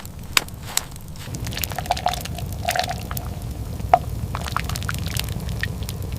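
Scattered sharp cracks and crackles, the loudest about half a second in and again about four seconds in, over a steady low rumble.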